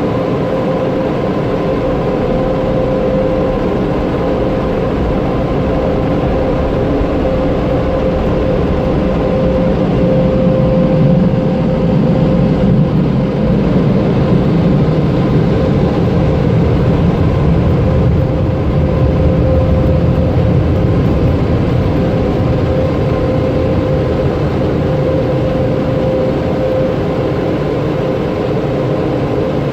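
Automatic car wash air dryer blowers running, a steady whine over rushing air, growing louder in the middle and easing off near the end.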